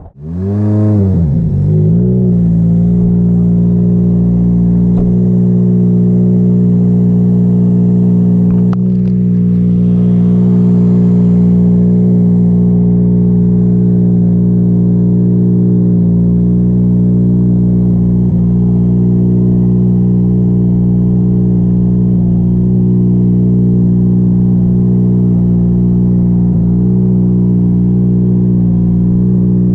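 Ford Fiesta WRC rally car's turbocharged four-cylinder engine running close by. The revs swing briefly at the start, then settle into a steady idle.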